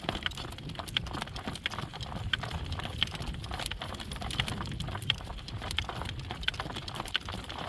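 Horse's hooves clip-clopping in a steady, even trot rhythm, over a low rumble of wind on the microphone.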